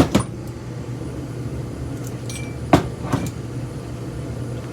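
Sharp knocks and clinks of steel ceiling-fan parts being handled and set down, in two pairs: one right at the start and one a little under three seconds in. A steady low hum runs underneath.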